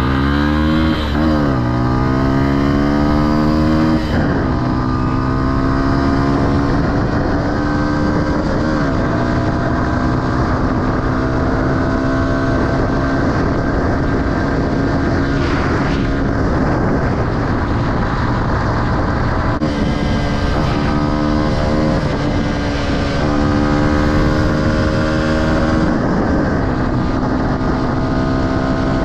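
Honda XR150L dirt bike's single-cylinder four-stroke engine running under way: revs climb for about four seconds and drop at a shift, hold steady for a long stretch, then climb again for several seconds before easing off near the end.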